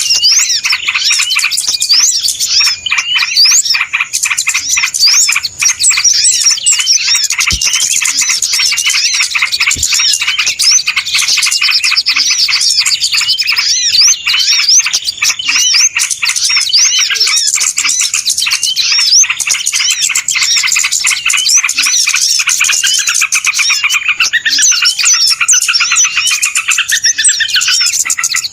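Dense, noisy chattering of many small birds, quick chirps and rising-falling notes overlapping without pause: a bird-lure (pikat) call for drawing in small birds. Near the end a lower warbling call joins in.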